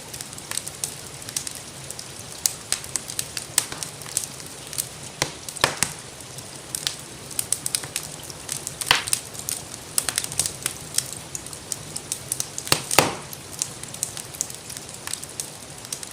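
Wood fire crackling in a fireplace: rapid irregular snaps with a few louder pops, about three, over a steady hiss of rainfall.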